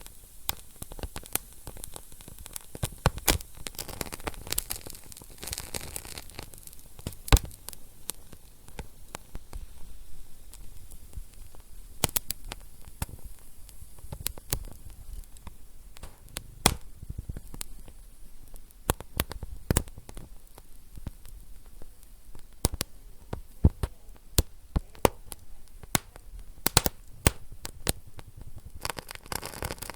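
Wood fire crackling in a fireplace: irregular sharp pops and snaps over a soft hiss, a few louder pops standing out.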